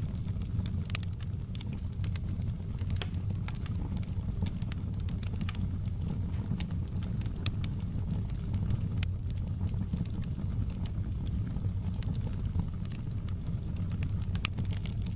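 Fireplace fire crackling: irregular sharp snaps and pops, several a second, over a steady low rumble of burning logs.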